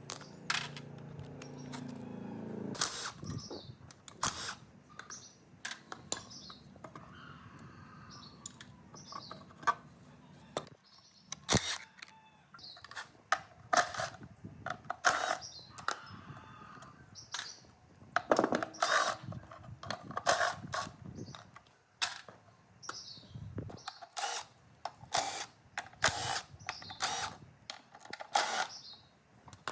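Irregular sharp clicks and knocks, many in close succession, with short high bird chirps between them; a low steady hum runs under the first few seconds and stops.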